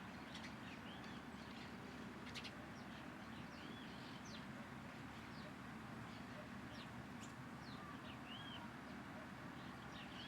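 Small birds chirping: many short, high chirps and little arched notes, scattered irregularly over a steady low background noise.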